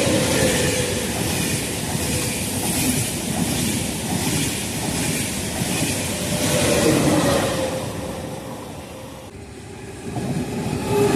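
A TGV high-speed train passing, its wheels clattering on the rails over a dense rushing noise with a hum that falls slightly. About nine seconds in the sound cuts abruptly to a quieter scene, where an E.464-hauled regional train can be heard approaching and growing louder.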